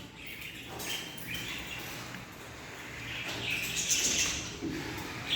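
Birds chirping and calling in short, scattered calls, busiest in the second half.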